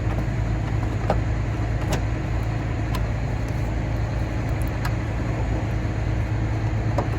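A steady low engine hum, with about five sharp light clicks of a part being worked loose by hand.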